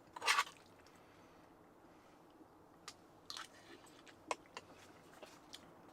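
A person eating: faint chewing and mouth noises with a few small crunches and clicks, after a short breathy sound at the start.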